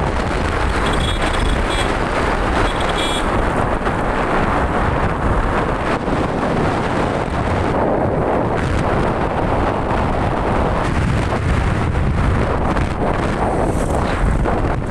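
Vehicle engine running steadily, with wind rumbling on the microphone.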